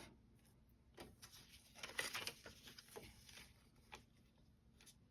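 Faint rustling and scratching of a fabric scrap and paper pattern being handled, mostly in the middle seconds.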